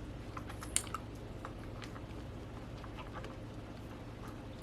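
Faint, scattered small clicks and crackles, with a sharper couple of clicks about a second in, over a steady low hum.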